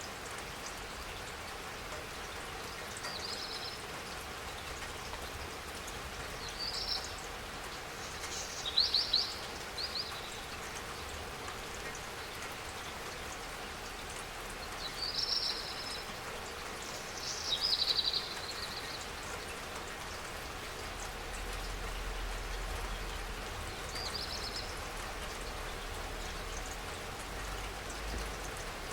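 Steady spring rainfall, with short high bird chirps breaking in every few seconds.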